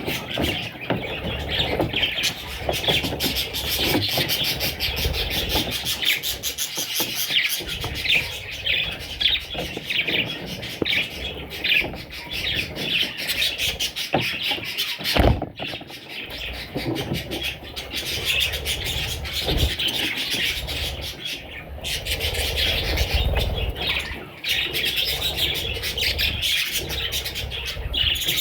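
A flock of budgerigars chattering and chirping continuously, with a few brief breaks.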